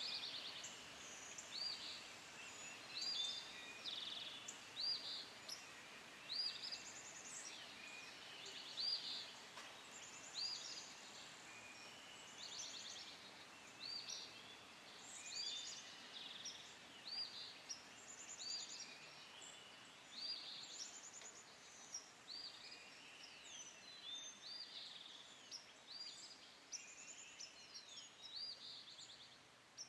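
Songbirds singing: a steady run of short, high chirps and trills, several a second at times, over a faint background hiss.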